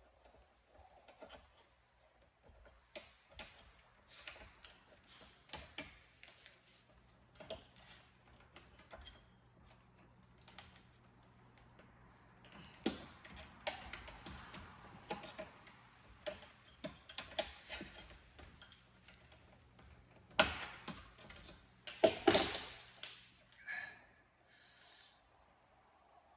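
Irregular small clicks, taps and rustles of hands working on parts and tools during a repair, with two louder knocks a couple of seconds apart near the end. A faint steady low hum runs underneath.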